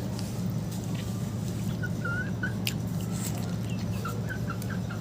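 A steady low hum with a few short, high bird chirps in two brief runs, one about two seconds in and another near the end, and a few faint clicks.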